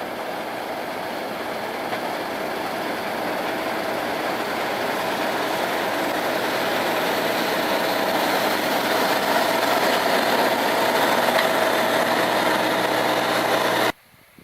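Harvest machinery working in a field: a diesel engine and machinery running steadily with a faint whine, growing louder as it comes closer, then cutting off abruptly near the end.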